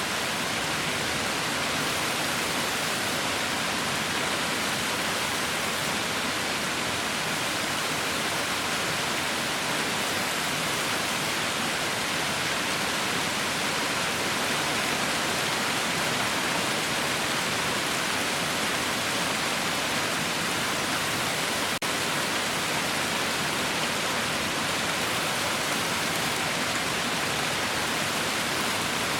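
Heavy rain falling as a steady, dense hiss with no individual drops standing out. It breaks off for a split second about twenty-two seconds in.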